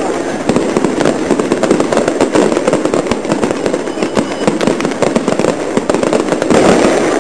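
Fireworks crackling: a dense, rapid stream of sharp overlapping pops and bangs that continues without a break.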